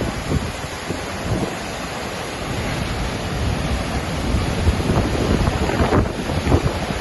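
Waterfall: a steady rush of falling water, with wind buffeting the microphone in irregular low gusts.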